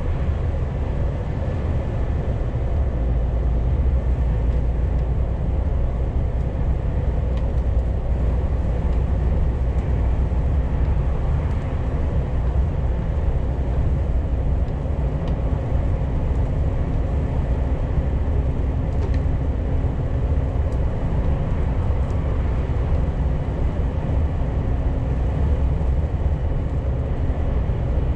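Scania G410 truck with its 13-litre CNG (methane) engine driving at a steady pace: a constant low engine drone with road and tyre noise.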